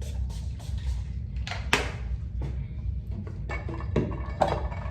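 Fragrance body mist being sprayed in a string of short, hissy bursts, with the loudest spray about one and a half seconds in.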